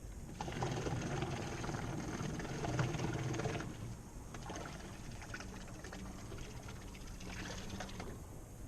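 Water splashing and trickling close to a small boat, in two stretches: the louder from just after the start to past three seconds, a weaker one from about four and a half seconds to eight.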